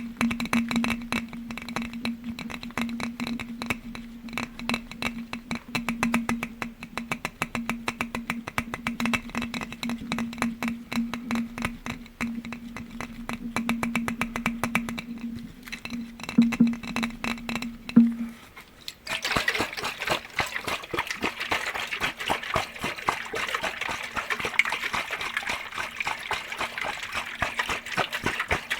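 Rapid tapping on glass objects, many taps a second, over a steady low tone. About two-thirds of the way through, the low tone stops and the tapping turns brighter, as if it has moved to a different glass object.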